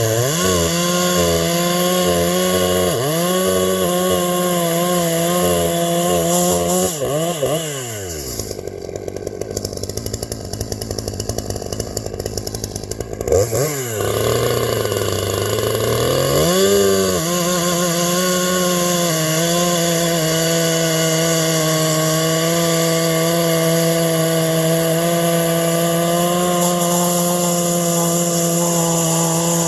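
Two-stroke gas chainsaw running and being revved in short blips, with a rougher stretch about eight seconds in where the clear engine tone drops out, then held at steady high revs for the second half.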